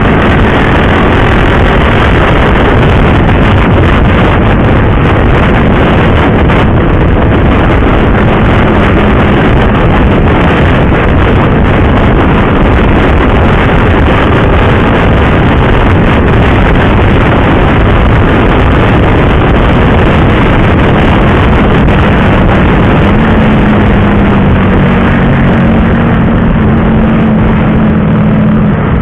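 Motorcycle under way at speed: heavy wind rush on the microphone with the engine's steady hum underneath, its pitch rising slightly in the last few seconds.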